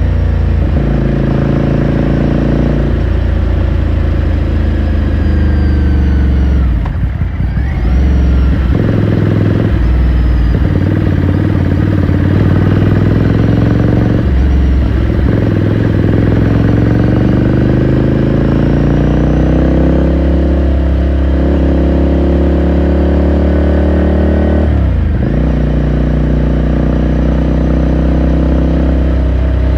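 2018 Ducati Scrambler Sixty2's air-cooled 399 cc L-twin engine running under way. Its pitch climbs as it accelerates, with sharp drops about seven seconds in and again near twenty-five seconds, as at gear changes.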